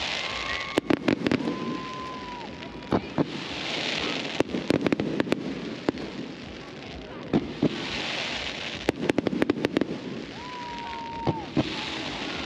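Fireworks going off: sharp bangs and rapid crackling in clusters, with held whistling tones about two seconds in and again near the end.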